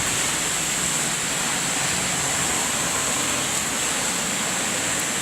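Heavy rain pouring down in a thunderstorm downpour, a steady even hiss.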